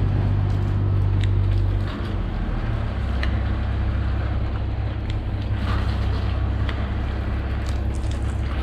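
Soft wash spray rig running: a steady low motor hum under the hiss of the spray, the hum shifting about two seconds in. The 12-volt pump has lost pressure, so the stream falls short of the peak it is aimed at.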